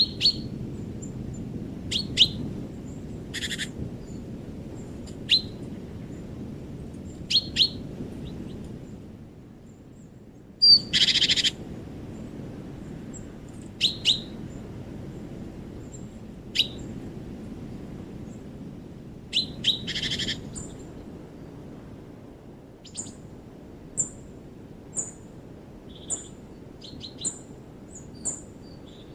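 Wild birds calling in a winter forest: short, sharp, falling chirps every couple of seconds and one longer, harsher call about a third of the way through. Near the end come thin, high notes repeated about once a second, all over a low, steady rumble.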